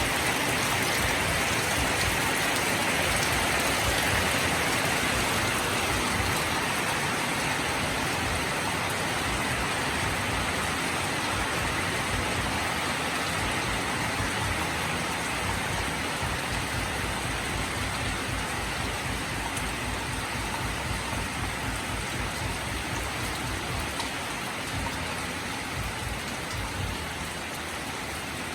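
Steady rain falling, a dense even hiss of drops on surfaces that slowly eases off.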